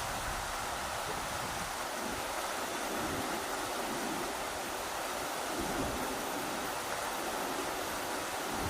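River water rushing over rocks in a steady hiss, with gusts of wind buffeting the microphone as uneven low rumbles.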